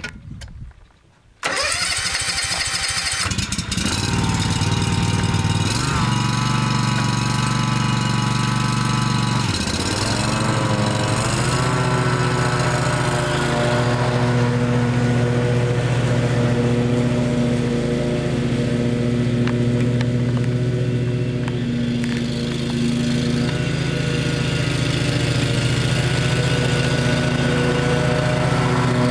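Kawasaki FH541V 17 hp V-twin engine on a Wright 36-inch stander mower starting about a second and a half in, catching within a couple of seconds, then running. Its engine speed shifts twice before it settles into a steady run.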